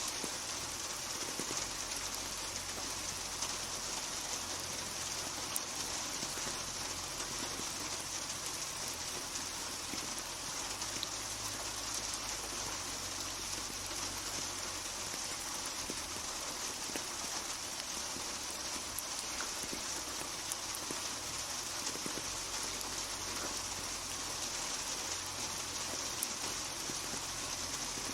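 Steady rain falling on hard surfaces: a dense even hiss with scattered individual drop ticks.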